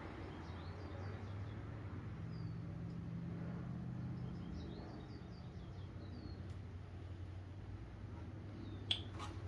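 Faint birds chirping: two short runs of quick, repeated high notes, over a steady low hum, with a sharp click near the end.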